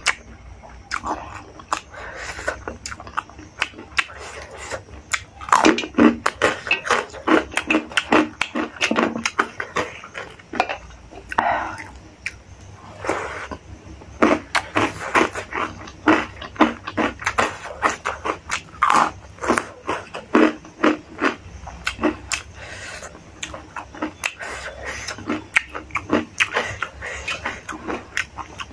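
Chewing with wet lip smacks and mouth clicks, steady and irregular throughout: a mouthful of hand-mixed rice, dal and pork curry being eaten.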